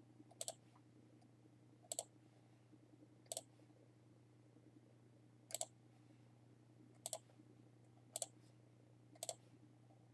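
Computer mouse clicking: single sharp clicks, about eight of them, one every second or two, over a faint steady low hum.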